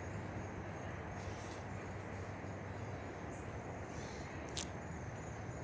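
Outdoor ambience: a steady low rumble with a faint high whine, and a few short sharp ticks, one of them about four and a half seconds in.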